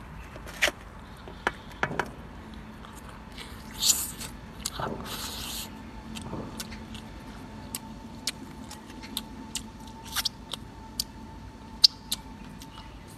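Close-up eating sounds: a person chewing and tearing into roast chicken, with scattered sharp clicks and a couple of short rustling bursts about four and five seconds in.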